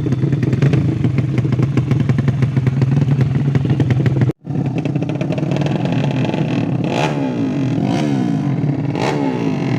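200cc motorcycle engine idling steadily. After a brief dropout of the sound a little under halfway through, the engine's pitch rises and falls as it is revved lightly, with two short blips near the end.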